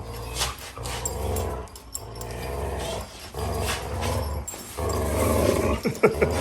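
A dog growling in repeated low bouts, each about a second long with short breaks between.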